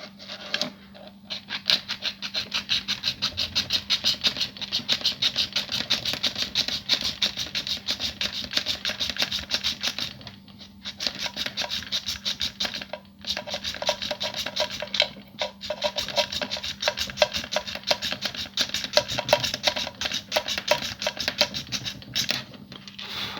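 Hand file rasping on a broken plastic toy part, quick even back-and-forth strokes several a second with a few short pauses, smoothing down a clipped-off break.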